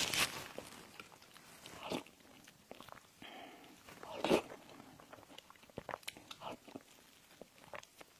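Close-miked eating: a person biting and chewing pastry sweets, with crunchy bites about two seconds in and just past four seconds, then a run of small chewing clicks.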